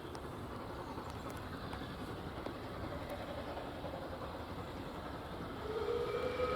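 Steam locomotive whistle sounding near the end, one held chime-like note that grows louder, over a steady low noise.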